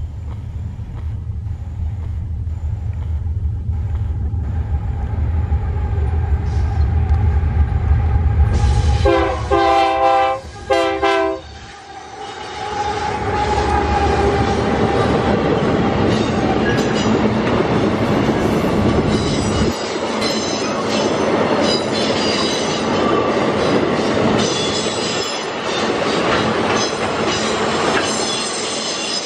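Diesel freight locomotive rumbling as it approaches, then sounding its horn in two blasts about nine seconds in. After that, a long train of loaded ore wagons rolls past with a clickety-clack of wheels over the rail joints and high wheel squeal on the curve.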